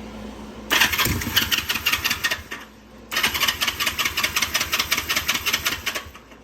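Honda CB360 being cranked on its electric starter in two bursts, the first about two seconds long and the second about three, with a fast even chuffing rhythm of roughly ten strokes a second. The engine turns over but does not catch: this is its first start attempt after being revived.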